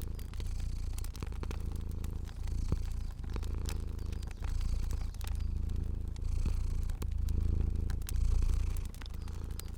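Domestic cat purring, a low rumble that swells and dips about once a second with its breaths, over the sharp crackles and pops of a fire.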